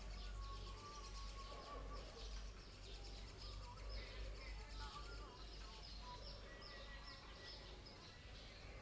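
Small birds chirping: a rapid run of short, high chirps that drop in pitch, repeated throughout, over a steady low rumble.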